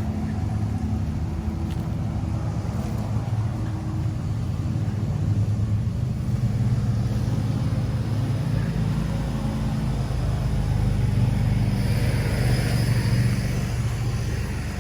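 A motor running steadily with a low hum, with a brief hiss near the end.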